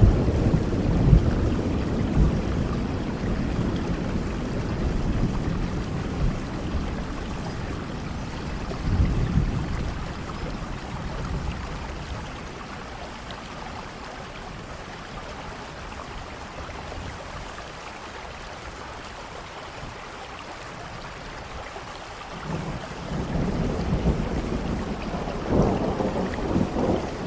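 Steady rain with rolling thunder: a low rumble dies away over the first few seconds, another swells briefly about a third of the way in, then after a quieter stretch of plain rain the thunder rumbles up again near the end.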